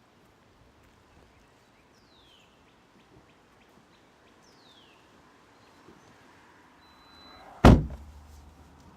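A door slammed shut once, hard, near the end, with a short low rumble after the bang. Earlier, two short high chirps that fall in pitch.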